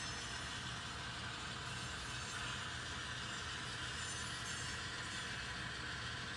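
N scale model train running steadily along the layout track, a continuous even hum and rolling noise.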